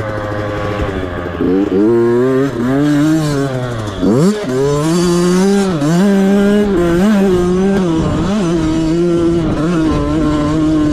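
Motocross dirt bike engine under race riding, heard close up. The revs rise and fall repeatedly as the rider works the throttle, with a sharp drop and a quick climb back about four seconds in.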